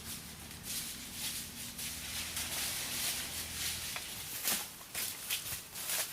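Irregular rustling and crackling with scattered light clicks, a few sharper ones between about four and six seconds in.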